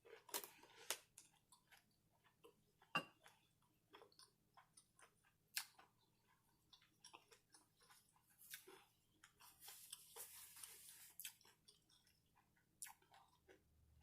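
Faint close-up chewing and crunching of fried, breaded seafood: a scatter of small clicks and mouth smacks, with a soft hiss about ten seconds in.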